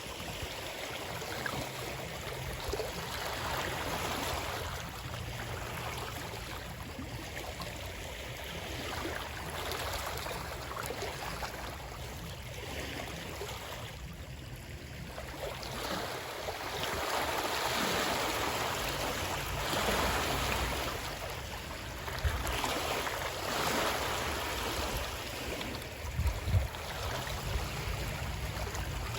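Moving water rushing and washing in slow swells every few seconds, over a low rumble, with a few brief low thumps near the end.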